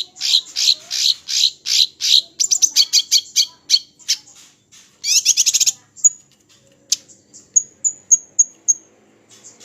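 Small songbird singing a fast, varied song of sharp chirps and trills, with a dense trill about five seconds in and a run of short, high piping notes near the end.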